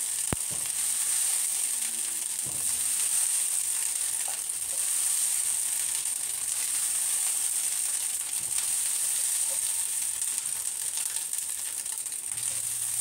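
Fried rice sizzling in a hot stainless steel wok, a steady hiss, as a spatula scoops it out onto a plate. A single sharp click comes just after the start.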